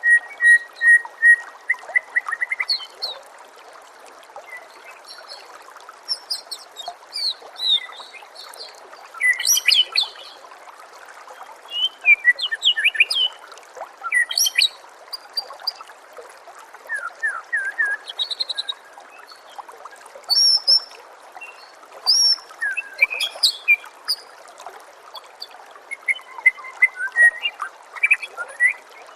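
White-rumped shama (murai batu) singing in separate, varied phrases of clear whistles, quick sweeps and trills, with short pauses between them. The song opens with a fast run of repeated notes, and a steady background of nature sound runs beneath it.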